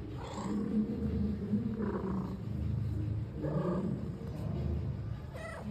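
Cat purring steadily, with a few short, faint higher sounds over it.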